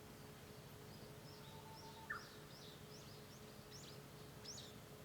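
Japanese bush warbler singing faintly: a held low whistle that ends in a short, sharp rising note about two seconds in, the loudest sound here. Through the middle, a run of quick high chirps climbs and speeds up, over a faint steady hum.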